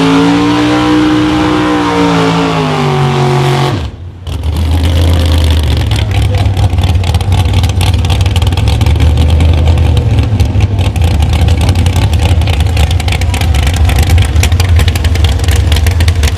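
The 1973 Chevy C10 drag truck's 588-cubic-inch V8 winding down from a rev. After a break about four seconds in, it idles loudly with a deep, steady rumble and rapid crackle.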